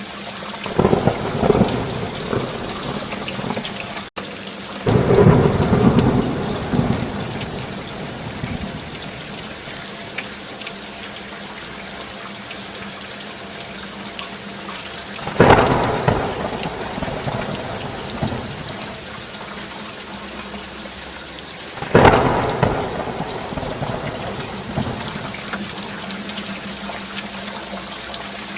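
Steady rain falling, with four rolls of thunder that break in suddenly and fade over a couple of seconds each: about a second in, about five seconds in, mid-way, and about two-thirds of the way through.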